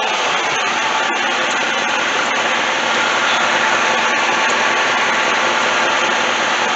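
A Chevrolet 6.0-litre LS V8 idling steadily, left running after a water pump replacement.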